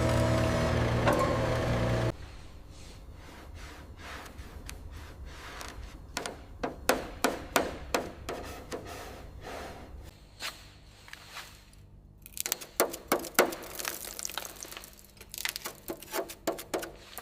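Background music for about two seconds, then it cuts off and a run of irregular clicks and knocks follows, coming in several clusters.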